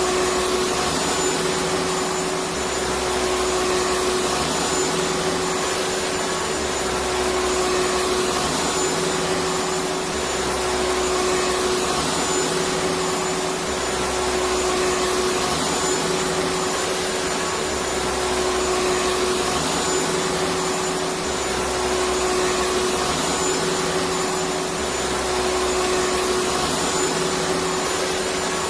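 Electric vacuum cleaner running steadily: a constant rushing of air under a steady motor whine, with a low hum that swells and fades every few seconds.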